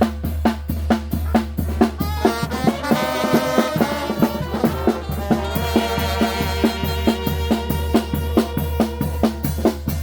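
Traditional Oaxacan brass band (banda de viento) playing: brass melody over a steady, regular beat of bass drum and snare.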